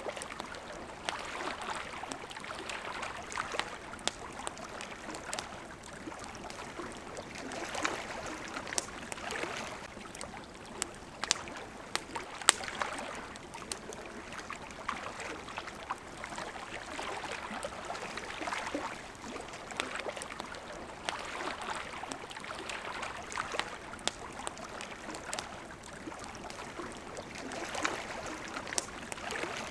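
Water lapping gently at the shore in soft swells every two or three seconds, with a wood campfire crackling over it in sharp pops and snaps, one louder pop about halfway through.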